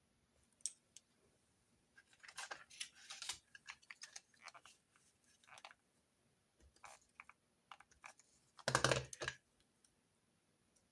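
Desk sounds of note-taking: scattered light taps and rustles, with a louder, fuller knock-and-rustle about nine seconds in.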